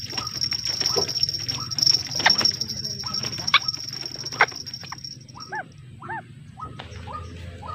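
A bird calling in short, arched notes, repeated about twice a second in the second half, among scattered sharp clicks. A steady high whine, like an insect, runs under the first half and stops about five and a half seconds in.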